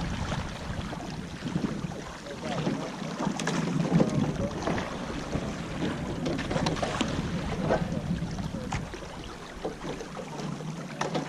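Oars of a rowing shell working the water as the crew spins the boat, backing on one side and rowing on the other, with a few short knocks. Gusts of wind rumble on the microphone.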